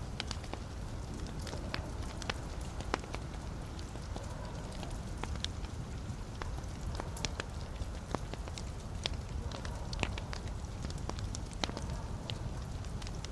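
Wood fire burning in a fireplace, a steady low rumble of flames with frequent sharp crackles and pops at irregular intervals.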